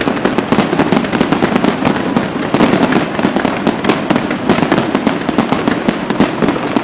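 Fireworks display: a dense, continuous barrage of rapid bangs and crackles, easing off near the end.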